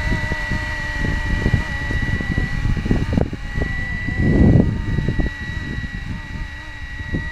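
Scale BO105 radio-controlled helicopter flying, its motor and gears giving a steady high whine while the rotor tones waver with the load. Heavy wind buffets the microphone throughout, with a strong gust about four and a half seconds in.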